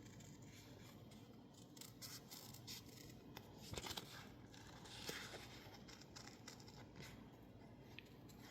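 Faint snips and paper rustles of scissors cutting sticker label paper, as short clicks and brief scraping strokes, the loudest a little before the middle.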